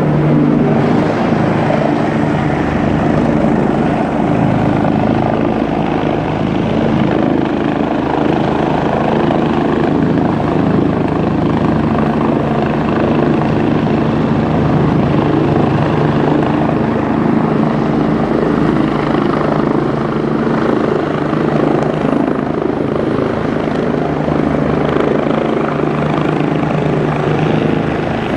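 Air ambulance helicopter running steadily close by: a continuous rotor and turbine drone with steady even tones over a rushing noise, holding level throughout.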